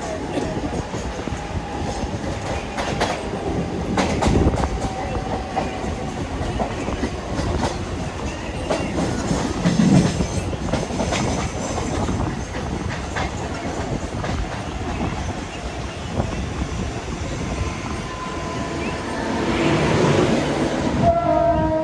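Mumbai suburban local train (electric multiple unit) running along the track, its wheels clattering over rail joints, with a swell in loudness near the end.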